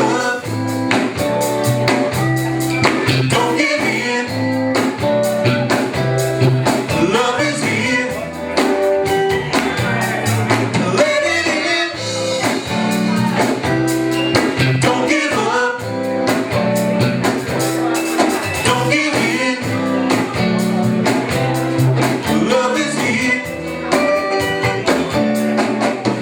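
Live band music: an instrumental stretch of a blues-tinged song, with a steady bass line under a lead instrument and no lyrics sung.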